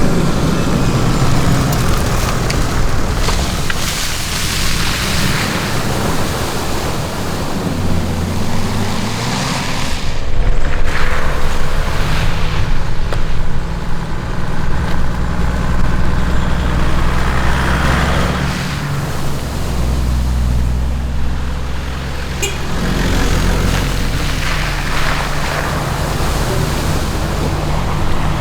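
Mitsubishi Montero 4x4's diesel engine running off-road on a dirt track, its revs rising and dropping several times, with rough tyre and body noise over it.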